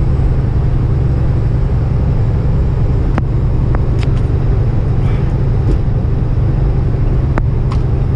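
Steady low drone of a semi truck's engine and road noise heard from inside the cab while cruising on the highway, with a few sharp clicks or rattles about three, four and seven seconds in.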